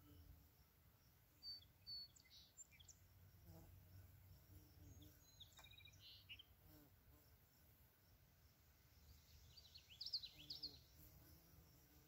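Faint birds chirping in scattered short calls, with a quick cluster of chirps about ten seconds in, over a low wind rumble.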